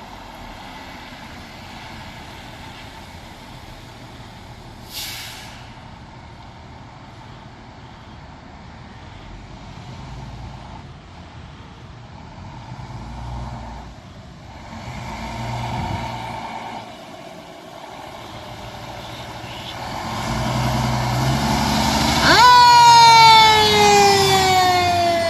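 Fire apparatus approaching: engine and road noise growing louder, with a short air-brake hiss about five seconds in. Near the end a siren starts, rising sharply and then sliding slowly down in pitch.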